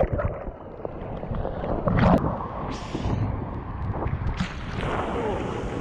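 Fast-moving river water splashing and rushing around a person in it, with wind buffeting the microphone and a couple of sharper splashes about two and four and a half seconds in.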